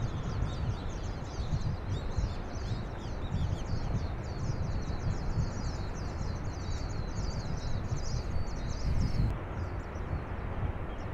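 Small birds chirping rapidly in many short, high, downward-slurred notes, which stop about nine seconds in. A louder, uneven low rumble runs underneath.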